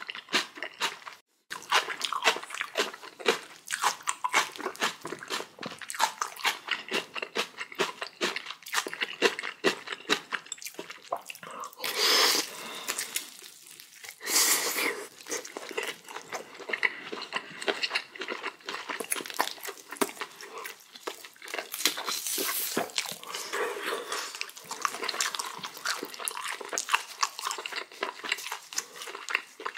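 Close-miked chewing of kimchi and boiled pork: a steady run of crunchy bites and chews. There are two louder, longer noisy sounds shortly before and after the halfway point.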